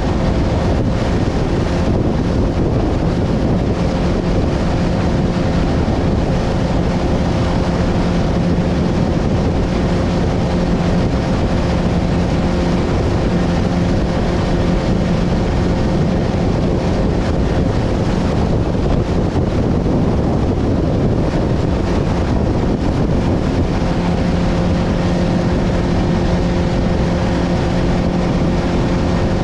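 A boat's motor running at a steady drone while strong wind buffets the microphone and the boat rides over choppy water.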